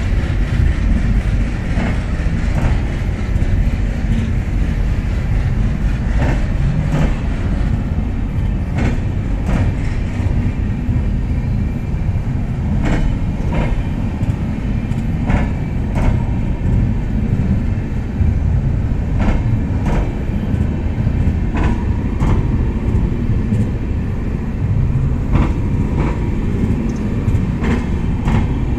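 Passenger train coaches rolling past close by as the train gathers speed. A steady low rumble runs under sharp clicks, often paired, as the wheels cross rail joints.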